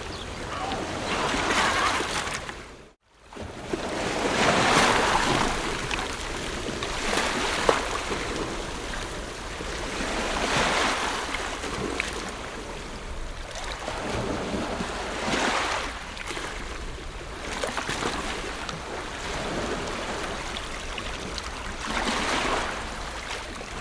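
Ocean waves breaking and washing ashore, swelling and falling every few seconds. About three seconds in the sound drops out to near silence for a moment, then returns.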